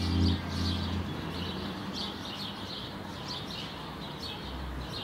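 A held music chord fades out in the first second, then faint bird chirping over a steady hiss.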